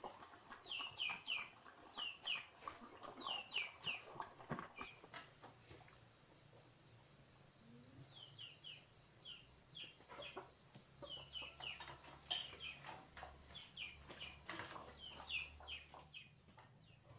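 Birds chirping in quick runs of three or four short falling notes, with a pause of a few seconds in the middle, over a steady high insect whine.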